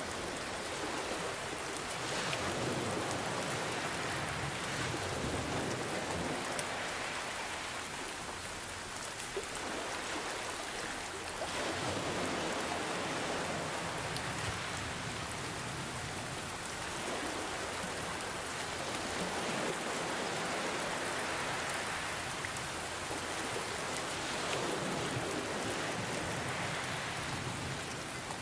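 Steady rain falling, mixed with ocean waves that swell and recede every few seconds.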